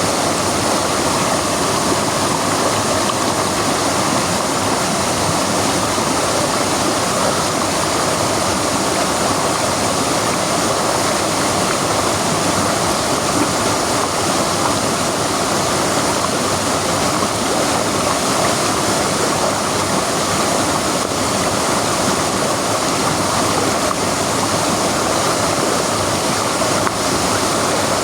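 Waterfall: falling water pouring steadily in a continuous, unchanging rush.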